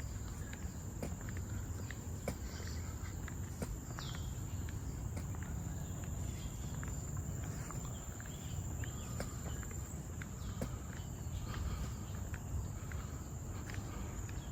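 Walking footsteps, a step roughly every 0.7 seconds, over a steady high-pitched insect drone from the forest, with scattered short chirps.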